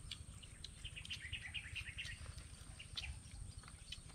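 Faint outdoor ambience over a low rumble, with a bird giving a quick run of short chirps about a second in.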